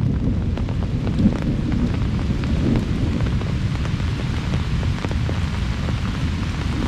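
Heavy rain falling steadily with wind, a dense hiss with a deep rumble under it and scattered individual drops ticking close by.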